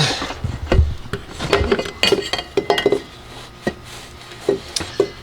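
Hard car parts being handled and knocked together: a quick run of clicks and knocks over the first few seconds, then a few single taps.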